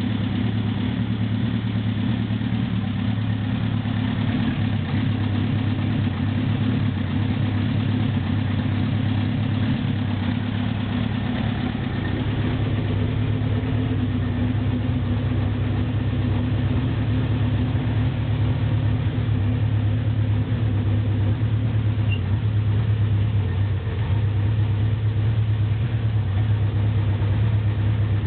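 Renault 8 prototype's R5 Alpine four-cylinder engine running at a steady speed, its note holding even with no revving.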